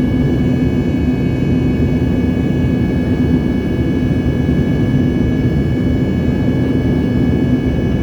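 Airliner engines running steadily after takeoff: an even low rumble with a steady hum and several thin, steady high whines above it, without change throughout.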